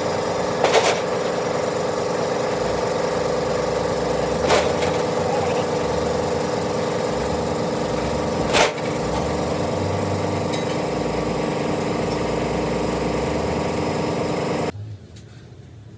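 A machine runs steadily at an even pitch, with three sharp knocks along the way. It cuts off suddenly about fifteen seconds in.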